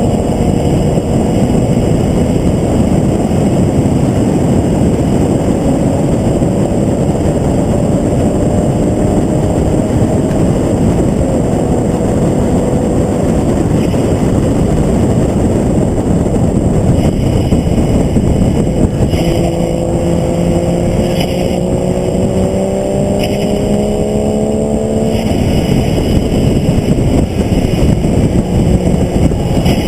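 Onboard sound of a vehicle lapping a race circuit: heavy rushing wind noise over the engine. The engine note climbs steadily for several seconds past the middle, then cuts off suddenly.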